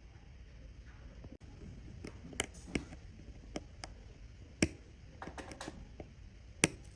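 Irregular sharp clicks and light taps of small tools against watch parts, about a dozen, with the loudest about 4.5 and 6.5 seconds in.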